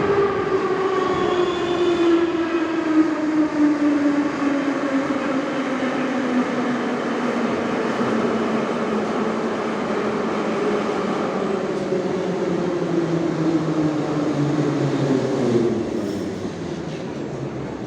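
Metro train's electric traction motors whining, several tones gliding slowly down in pitch as the train slows. The sound grows quieter near the end.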